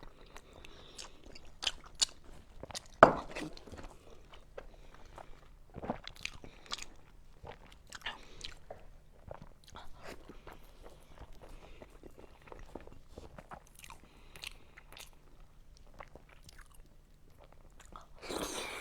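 Close-up eating sounds of pork skin rolls being bitten and chewed: scattered sharp mouth clicks and bites, the loudest about three seconds in, with a short rush of noise near the end.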